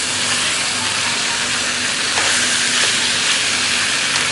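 Chicken pieces sizzling steadily as they sear in hot oil in a pan, stirred now and then with a few faint scrapes.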